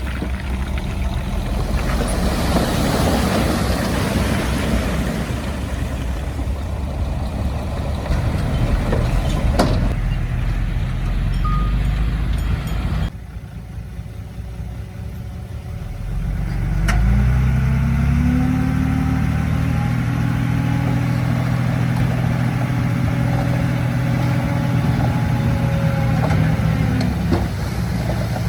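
Heavy diesel engines of earthmoving machines running. About halfway through the sound drops off abruptly, then an engine revs up and holds at high revs with a steady tone.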